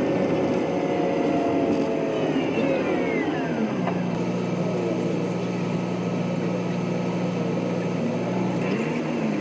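A vehicle engine slowing, its pitch gliding down over a second or two about three seconds in, then settling into a steady low hum, with a brief rise in pitch near the end.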